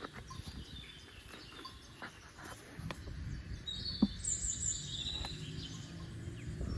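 Birds chirping over a low steady background rumble, with one short sharp click about four seconds in.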